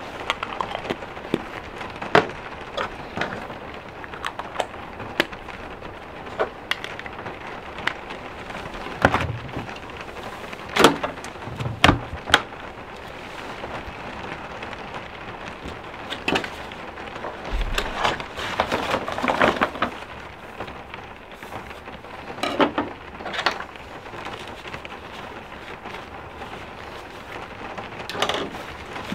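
Steady rain, with scattered clicks, knocks and clatter of kitchen gear being handled and put away: jar lids, dishes, and a knife and wooden cutting board set down on the counter near the end.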